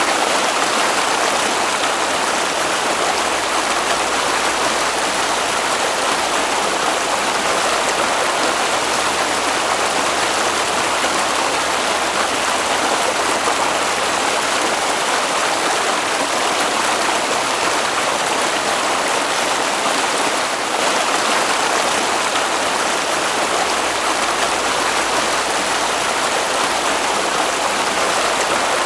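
Flowing stream water: a steady, even rush with no breaks.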